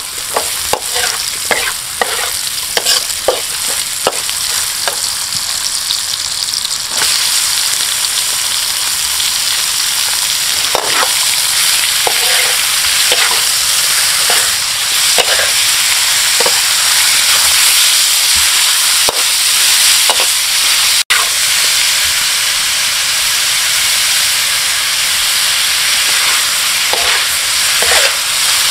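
Chicken offal sizzling as it fries in a pan, with a utensil clicking and scraping against the pan as it is stirred. The sizzle gets louder about seven seconds in.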